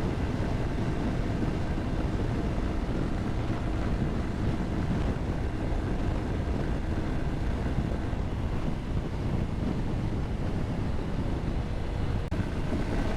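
Wind rushing over the microphone of a motorcycle at highway speed, with the bike's engine and tyres running steadily underneath.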